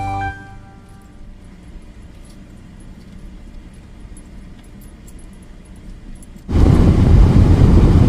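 Guitar music ends at the start, then a quieter stretch, and about six and a half seconds in a loud, steady low rumbling noise starts suddenly and carries on.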